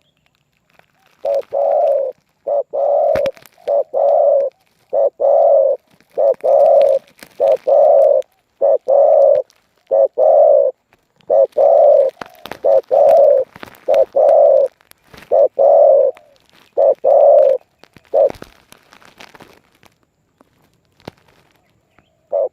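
Spotted dove (terkukur) cooing: a long run of low coo notes in short phrases, breaking off about eighteen seconds in and starting again right at the end.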